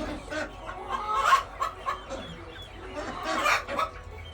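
Hens in a mixed flock clucking, a few separate calls with the loudest about a second in and again about three and a half seconds in.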